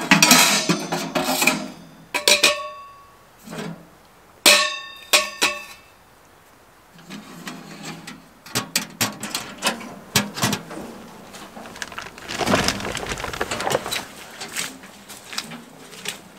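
Steel wood stove parts being handled: metallic clanks that ring briefly, in clusters over the first five or six seconds, then lighter clicks, knocks and a scraping rustle.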